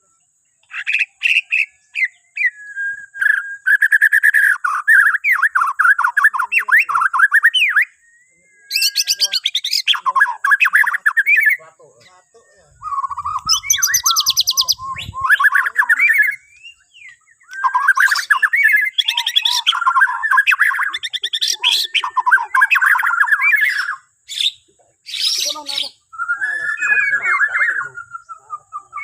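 Bornean white-rumped shama (murai batu) singing: a string of varied phrases of rapid whistles, trills and harsh chatter, separated by short pauses.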